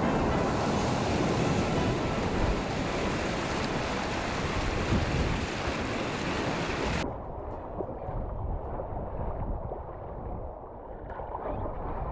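Rushing whitewater of a river surf wave, a steady hiss of moving water with wind buffeting the microphone. About seven seconds in, the sound turns suddenly duller and a little quieter, with only the low rush and a few light splashes left.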